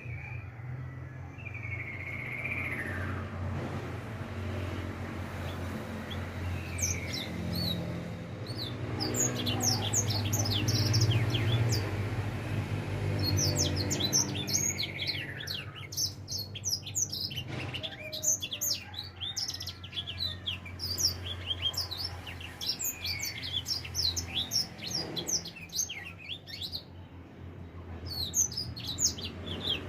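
Young edel sanger finch (black-throated canary) singing: a long run of quick, high, sweeping chirps and twitters, with occasional slower falling notes. The song is that of a four-month-old bird starting to sing freely. A steady low hum runs underneath.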